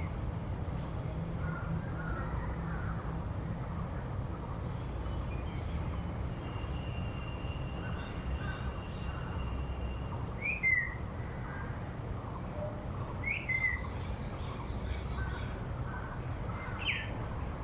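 Birds giving short, sharp calls three times, about ten, thirteen and seventeen seconds in, with fainter chirps between. Under them runs a steady high-pitched insect drone and a low rumble.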